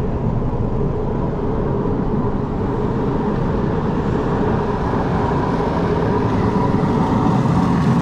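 A motor vehicle running steadily: continuous engine and road noise with a steady hum, getting slightly louder near the end.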